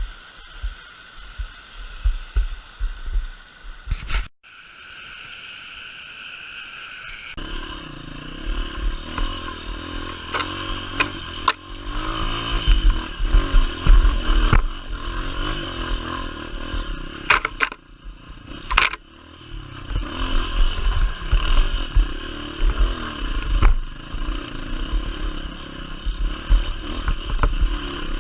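Motorcycle engine running under way, its note shifting about seven seconds in, with sharp knocks and rattles from the ride and wind buffeting the microphone.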